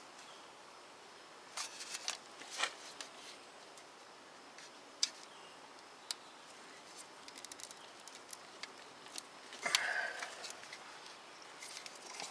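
Scattered small clicks and taps of hands and a tool working at a brittle plastic hose connector in an engine bay, with a brief scraping rustle near the end as it comes free.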